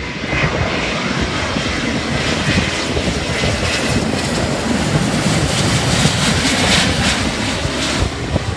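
Jet airliner's engines passing low overhead, a loud, dense rushing noise that builds to its loudest about six to seven seconds in, then begins to ease.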